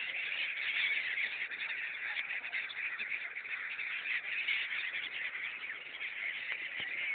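A large flock of migratory birds over the river calling continuously, a dense chorus of many high, overlapping calls.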